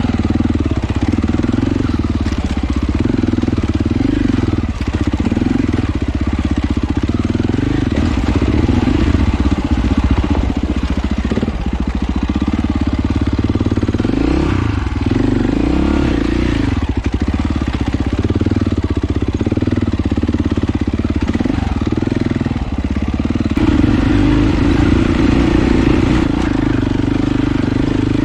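Off-road motorcycle engine running continuously as it is ridden along a trail, its pitch rising and falling with the throttle.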